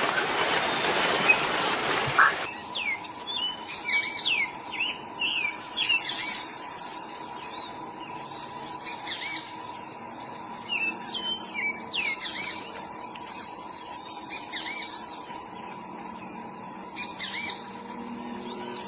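A loud rushing noise for about the first two seconds, then songbird calls: short, quick chirps repeated in clusters, over a faint steady tone.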